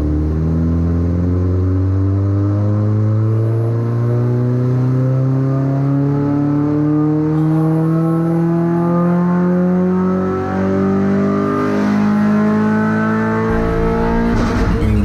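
1996 Acura Integra's B18B1 1.8-litre four-cylinder engine on a dyno pull, climbing steadily through the revs under load in one long rise. Near the end the revs fall away as the pull ends.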